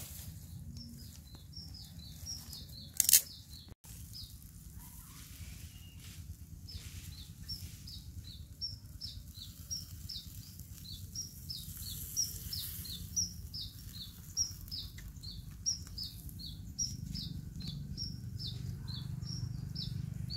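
A bird chirping over and over in short, high, downward-sliding notes, two or three a second. About three seconds in there is one brief, loud noise.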